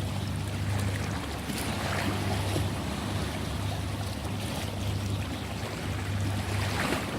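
Ocean waves washing with a steady low rumble underneath; waves surge about two seconds in and again near the end.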